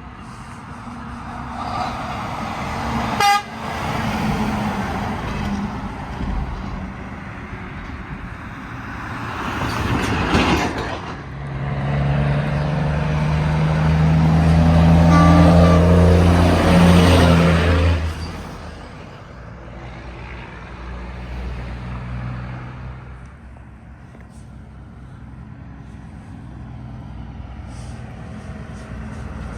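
Trucks passing on a road. One sounds its horn in a long steady blast of several seconds as it goes by, the loudest part, after a short sharp sound near the start.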